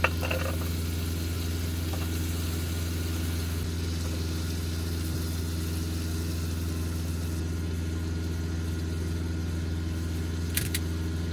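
Semi-truck diesel engine idling, a steady low hum heard from inside the cab. Two short sharp clicks come near the end.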